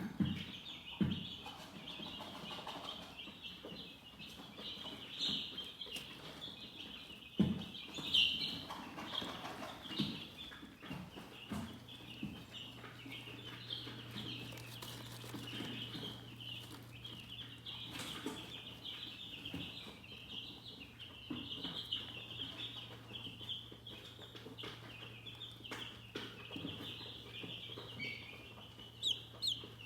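Many chickens chirping together in a dense, continuous, high-pitched chorus, with scattered soft knocks. A faint steady low hum comes in about a third of the way through.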